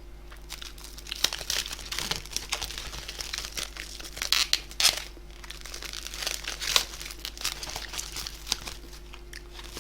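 Plastic food packaging crinkling and rustling in short, irregular bursts as takeout containers are handled and unwrapped.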